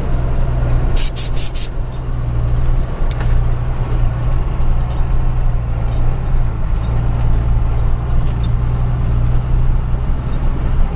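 A motor vehicle's engine drones steadily while driving, heard from inside the vehicle. About a second in come four short, sharp, high-pitched bursts in quick succession.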